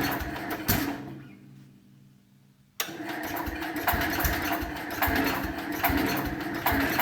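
Cub Cadet 125's Kohler 12 hp single-cylinder engine running unevenly, dying away about a second in, then firing up again suddenly near three seconds and running rough. This is a start on choke that the owner reads as too much choke.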